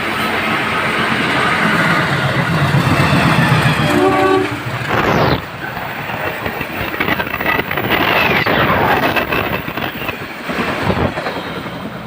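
A train passing close by at speed, its wheels clattering and rumbling over the track, with a short horn blast about four seconds in.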